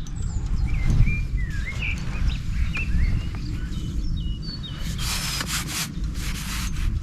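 Songbirds chirping repeatedly over a low, steady rumbling noise, with a spell of harsh scraping noise about five seconds in that lasts under two seconds.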